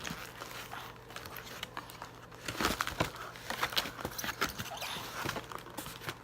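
Cardboard takeout box and paper being handled and shifted: irregular crinkling, rustling and light knocks, busier from about halfway through.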